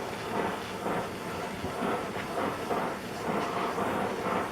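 Gas torch flame hissing steadily as it heats a cast drill press head, expanding the bore so a sleeve can be slipped in.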